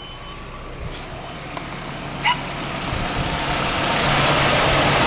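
1997 Nissan pickup truck engine starting up and settling into a steady idle, getting much louder about four seconds in, with a short chirp about two seconds in.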